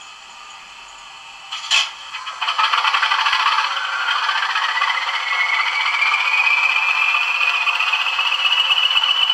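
Model Class 20 diesel locomotive's DCC sound decoder playing through its small onboard speaker: a click, then the engine start-up, a clattering run-up with a whine that rises steadily in pitch over several seconds.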